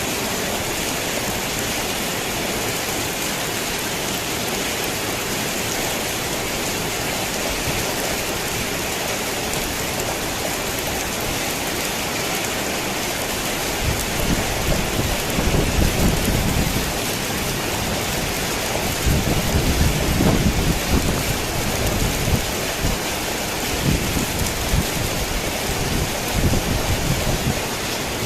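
Steady heavy rain falling on a tin roof. About halfway through, rolling thunder begins and rumbles on and off, rising and fading several times.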